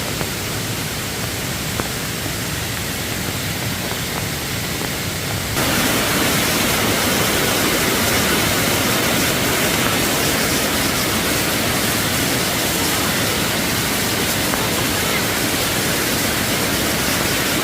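Rushing floodwater of a rain-swollen forest stream, a steady hiss of flowing water that suddenly gets louder about five and a half seconds in.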